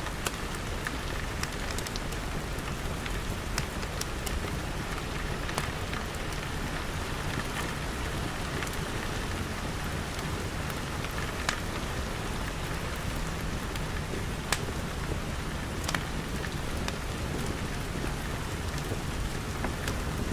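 Steady rain pattering on glass walls and roof, with scattered sharp ticks every second or two.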